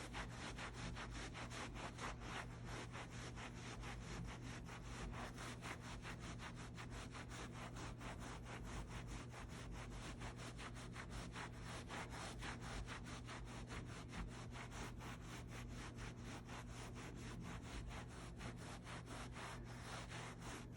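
Wet Envirocloth microfibre cloth scrubbed rapidly back and forth over a dog-vomit stain: a faint, steady rubbing of even strokes, about five a second.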